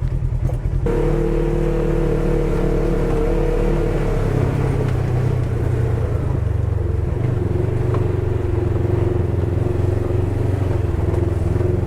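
Engine of a Polaris side-by-side running steadily under way, its note shifting a few seconds in and again later.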